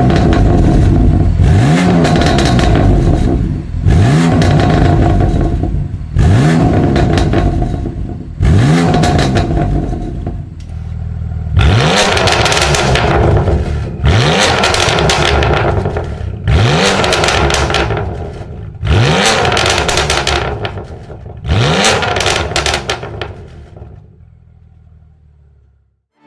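BMW M2 Competition's twin-turbo straight-six, with catless downpipe, mid x-pipe and valved muffler, revved hard about ten times, roughly every two and a half seconds. Each rev rises in pitch and falls back with a crackling, popping exhaust on the overrun, and the sound dies away near the end.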